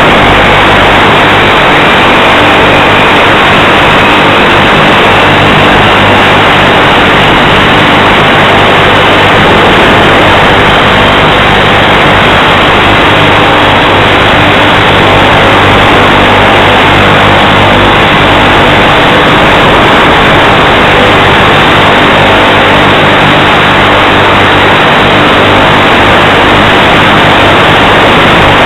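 Loud, steady rush of motor and wind noise from an RC plane in flight, picked up by its onboard FPV camera, with a faint whine slowly rising in pitch.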